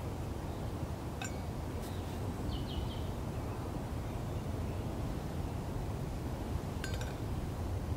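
Wind rumbling on the microphone, with a few brief bird chirps and a couple of faint clicks.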